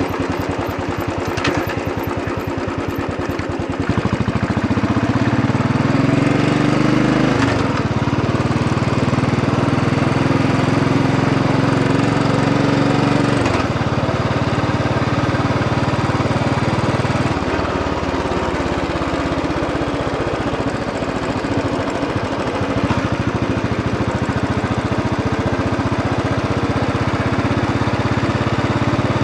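Royal Enfield Bullet 500 EFI's air-cooled single-cylinder engine running under way, a fast even thump at low revs, then getting louder about four seconds in as the revs climb, with the engine note changing in steps at a few points along the way.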